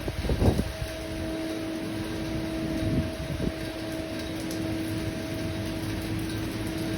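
Steady rain, an even hiss, with a steady hum running through it and a few low thuds near the start and about three seconds in.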